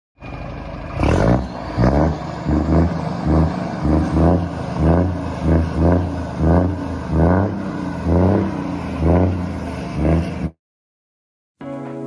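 A heavy truck's engine running with a rhythmic pulsing rise and fall, about two pulses a second, that cuts off suddenly near the end.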